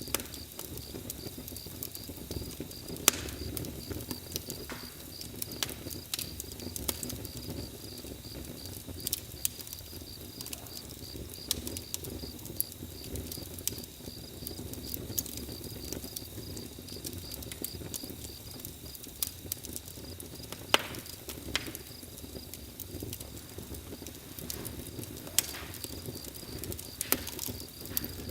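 Campfire burning with a steady low noise and frequent sharp crackles and pops from the wood, a few of them louder. A high, evenly pulsing chirp like crickets runs under it.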